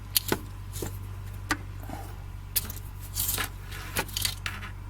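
Engine oil dipstick of a 2005 Honda Pilot clicking and rattling against its metal tube as it is worked back down in. There are several light, scattered metallic clicks over a few seconds.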